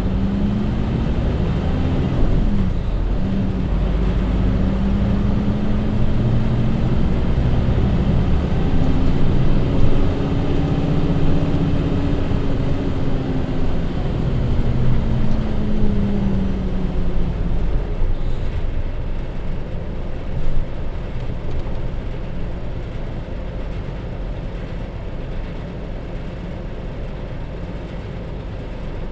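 Hino Rainbow HR city bus's J07E inline-six diesel pulling away: the engine note rises, drops at a gear change about two seconds in, then climbs steadily. It then falls away as the bus slows, and by about two-thirds of the way through only a quieter steady rumble is left.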